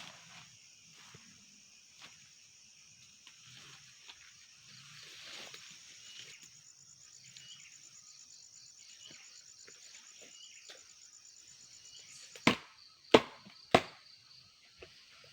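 Insects, such as crickets or cicadas, trilling steadily in a high-pitched chorus, with a few faint short chirps. Near the end, three sharp knocks in quick succession, the loudest sounds.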